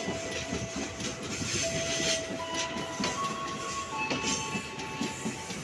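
Container freight train's flatcars rolling slowly past, wheels knocking irregularly over rail joints, with steady high-pitched tones that shift pitch a few times.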